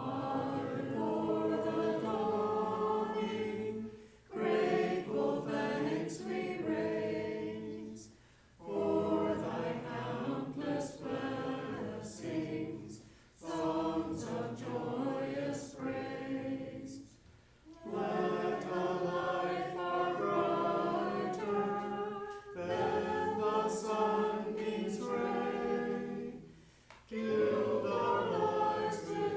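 A congregation singing the closing hymn together in unison, in phrases of about four to five seconds with a short breath between lines.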